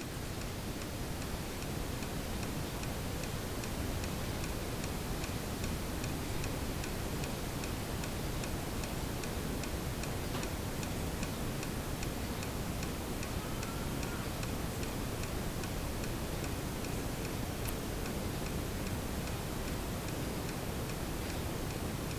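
Steady, evenly spaced ticking over a low, constant background noise, with one faint short chirp about two-thirds of the way through.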